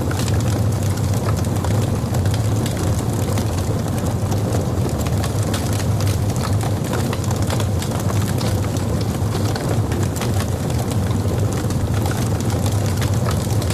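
Logs burning in a fireplace: frequent sharp crackles and pops over a steady low rumble.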